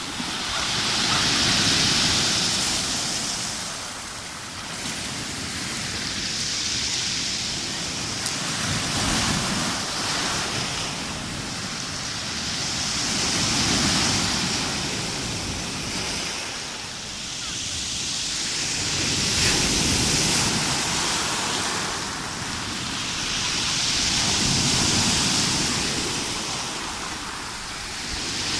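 Rough sea: waves breaking and washing up on the shore, the hiss of surf swelling and falling about every five seconds.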